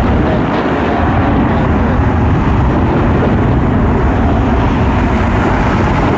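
Steady, loud rush of jet airliner engine noise, mixed with heavy wind buffeting on the microphone.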